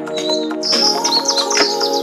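Birds chirping over soft background music. A quick run of high, falling chirps starts about a third of the way in, while steady chords play underneath.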